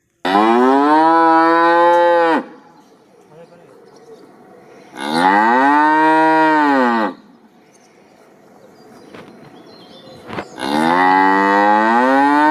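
Cow mooing: three long moos a few seconds apart, each rising and then falling in pitch.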